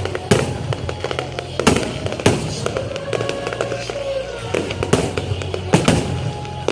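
Fireworks bursting: a quick string of sharp bangs and crackles, about half a dozen of them loud, with music playing underneath with held bass notes.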